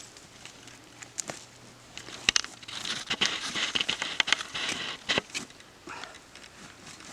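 Crackling and rustling in dry leaves and brush, with scattered sharp clicks and knocks, densest from about two and a half to five seconds in.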